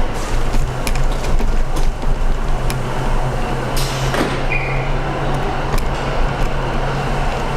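Station passenger lift travelling down: a steady low motor hum with rumble. A short high beep sounds about four and a half seconds in.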